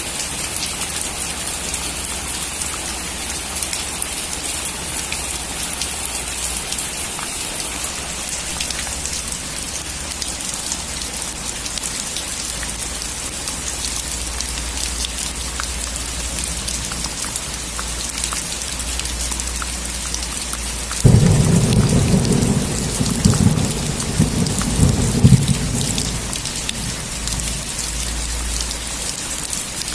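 Steady heavy rainfall hissing on surfaces. About two-thirds of the way through, a sudden low thunderclap breaks in and rumbles for about five seconds before fading, as the rain keeps falling.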